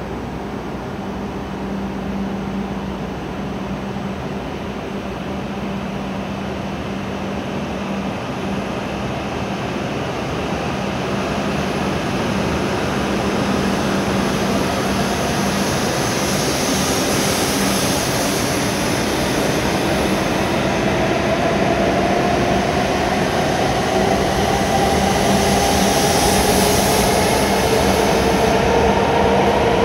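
W7-series Shinkansen pulling out of the station from a standstill, its electric traction motors giving a whine that rises steadily in pitch as it gathers speed over the last third. Running noise grows louder throughout as the cars pass close by.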